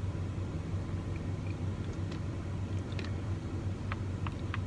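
Steady low hum of an idling truck heard from inside the cab, with a few small clicks and taps from about two seconds in, as a drink bottle is handled and sipped.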